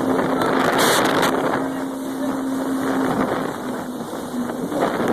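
Jet ski engine running steadily under a dense rush of wind and water noise, its hum dropping slightly in pitch about three seconds in.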